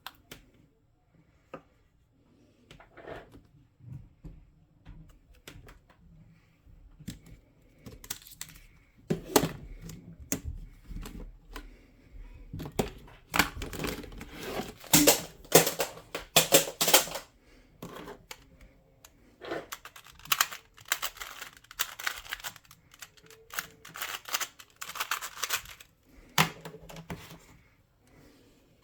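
Plastic puzzle cube being turned by hand: rapid clicking and clacking as its layers are twisted, sparse at first, then dense fast runs of turns broken by short pauses.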